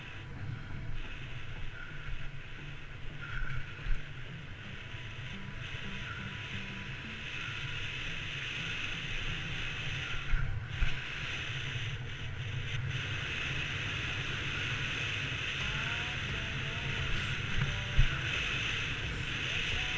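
Steady wind and rolling noise while riding, a low rumble under a hiss, with a few brief knocks.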